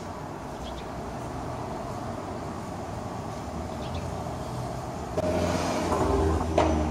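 Steady street traffic, then about five seconds in a nearby small turbocharged four-cylinder engine, the Fiat 500 Abarth's, comes up loud with a low exhaust drone. A single sharp click sounds near the end.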